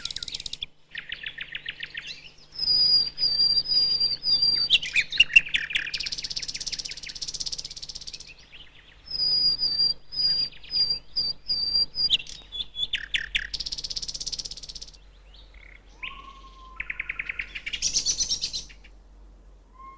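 Male common nightingale singing in varied phrases of rapid repeated notes, rattling trills and clear whistles, broken by short pauses. This is the territorial and courtship song a male uses to claim ground and attract a mate.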